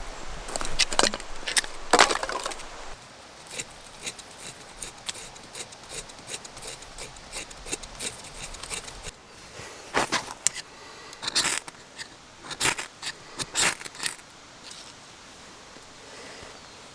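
Irregular knocks, clicks and scrapes of handled objects, loudest about two seconds in and in a burst of sharp hits a little past the middle, then quieter near the end.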